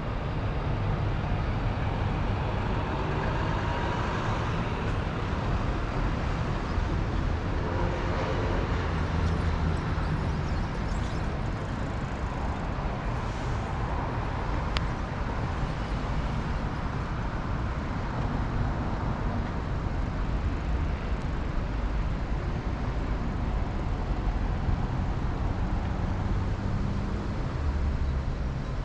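City road traffic: a steady rumble of passing cars and larger vehicles, with a brief sharp click about halfway through.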